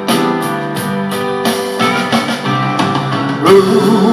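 Instrumental backing music of a slow country ballad: keyboard and guitar chords over a steady drum beat, between sung lines.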